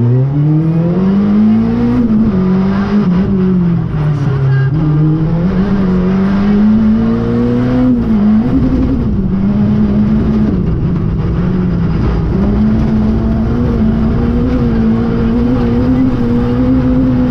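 Renault Clio III RS rally car's 2.0-litre four-cylinder engine heard from inside the cabin, pulling hard from low revs at the start and then held high, its pitch dipping and climbing again several times, with rough road and tyre noise underneath.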